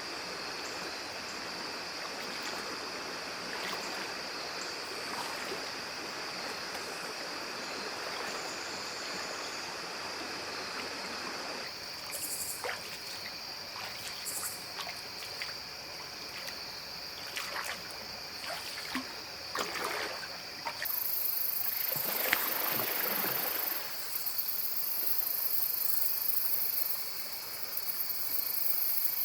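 Creek water running and trickling, with a steady high insect trill over it and a few small splashes; about two-thirds through, a second, higher-pitched insect buzz joins in.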